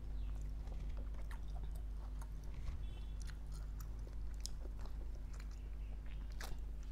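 Close-miked chewing of a mouthful of mutton rogan josh with garlic naan, with many small wet mouth clicks. In the second half, hands tear a piece of garlic naan.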